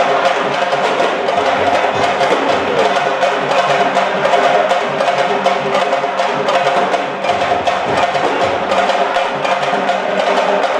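Percussion-driven music: fast, steady drumming with sharp wood-block-like strikes, over a sustained held tone.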